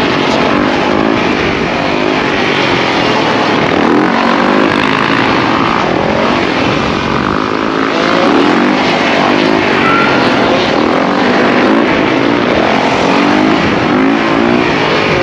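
A pack of dirt bikes and ATVs running together, several engines revving at once, their pitches rising and falling over one another with no break.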